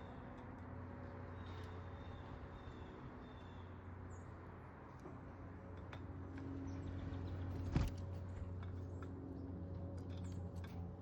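Outdoor backyard ambience: a steady low mechanical hum like a distant engine, with a few faint bird chirps in the first half and one sharp knock about eight seconds in.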